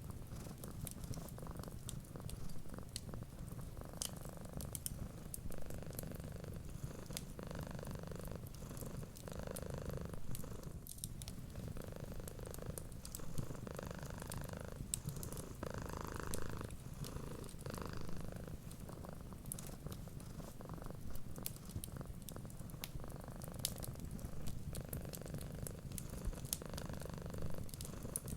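Cat purring close up, a steady low rumble swelling and easing with each breath every second or two, with light crackling clicks from a wood fire.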